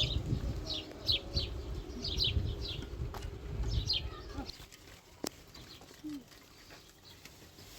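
Small birds chirping in quick, repeated high calls over a low rumble, both fading out about four and a half seconds in; a single sharp click follows a little later.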